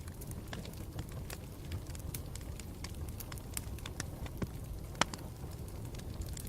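Campfire burning with a steady low rumble and irregular crackles and pops, the sharpest snap about five seconds in.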